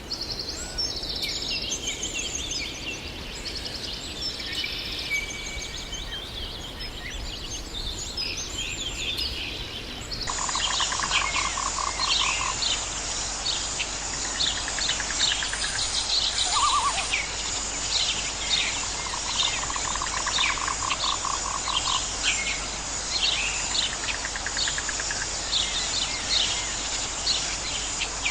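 Birds singing with varied high chirps and phrases. About ten seconds in, a different recording takes over: a denser chorus of rapidly repeated high chirps, with a lower pulsing trill that comes and goes several times.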